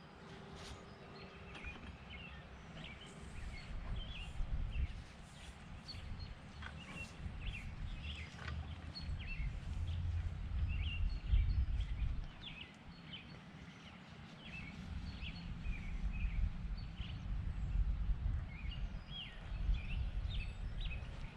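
Wild birds chirping and singing in many short calls, over a low rumble that swells and fades, loudest around ten to twelve seconds in.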